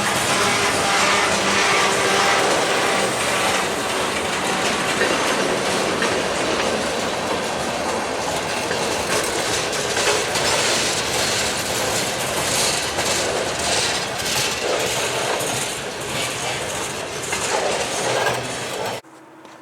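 Freight train rolling past at close range, its wheels clattering over the rail joints in a steady run of clicks. It cuts off suddenly near the end.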